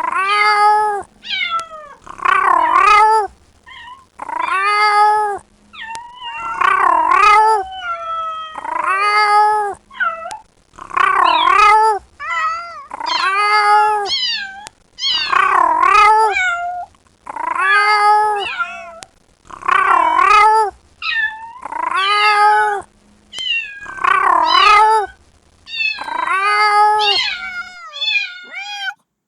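Kitten meowing loudly and over and over, calling for its mother: a long meow that rises and falls about every two seconds, with a few shorter, weaker meows near the end.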